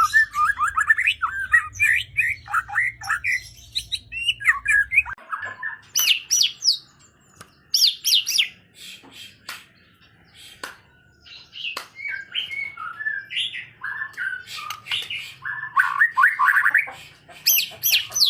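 White-rumped shama (murai batu) singing vigorously: a fast, varied stream of whistles, rapid sweeping trills and sharp clicking notes, broken by a couple of brief pauses.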